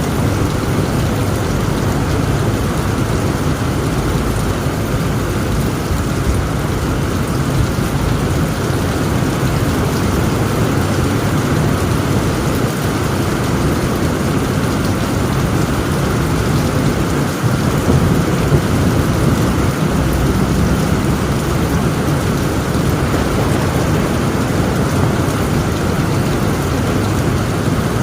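Heavy rain pelting a tent roof in a steady downpour, with a continuous low rumble of thunder beneath it. The rumble swells slightly about two-thirds of the way through.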